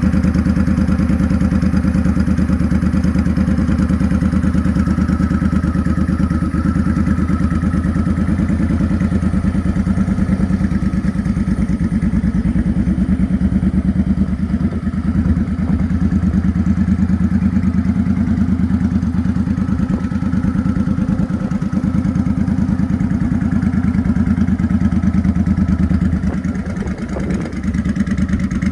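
Motorcycle engine running at a steady speed, with a brief drop in level near the end.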